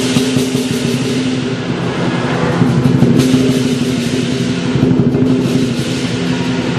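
Lion dance percussion: a Chinese lion drum beaten in a fast, dense roll with clashing cymbals and a ringing gong.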